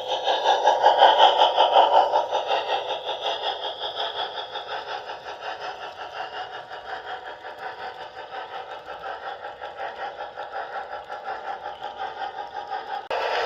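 H0 scale model train running on the track, its motor hum mixed with an even, rapid clatter of wheels over the rails. It is loudest about a second in and fades as it moves away, then swells again. Just before the end the sound abruptly changes to a louder clatter.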